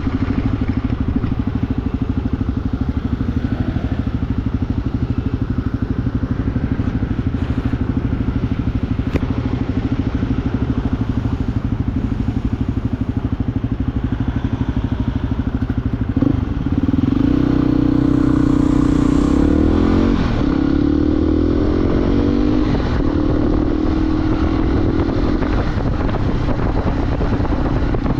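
Motorcycle engine running steadily at low revs, then about two-thirds of the way through it accelerates: the pitch climbs, drops at a gear change and climbs again before settling into a steady cruise.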